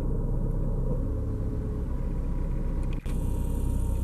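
Steady low rumble of a parked car's idling engine, heard from inside the cabin, with a faint steady hum above it; the sound drops out for an instant about three seconds in.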